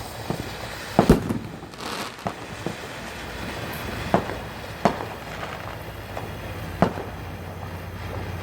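Small consumer fireworks going off in a string of sharp, irregular bangs. A loud double bang comes about a second in, three more loud bangs follow later, and a few fainter pops fall in between.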